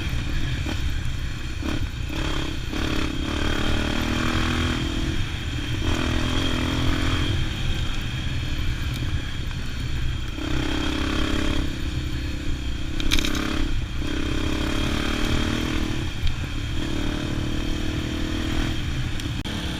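Motorcycle engine running while under way, its note rising and falling every second or two as the throttle and revs change.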